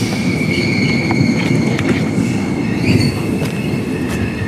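Passenger train running along the track: a low rumble of the wheels with a steady high-pitched wheel squeal and a few sharp clicks from the wheels over the rail.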